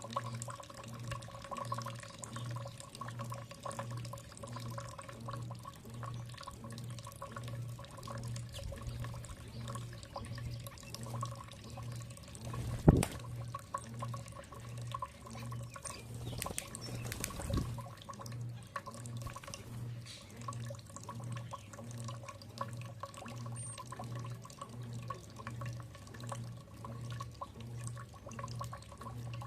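Water dripping and trickling over a steady low hum that pulses a little more than once a second, with one sharp knock about 13 seconds in and a couple of faint high chirps near the end.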